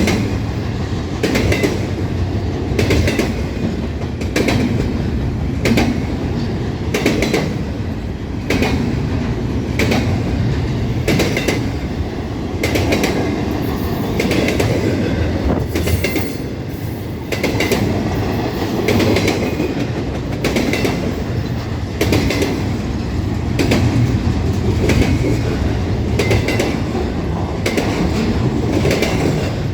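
Train cars rolling past, a steady heavy rumble with the wheels clicking over rail joints about every second and a half.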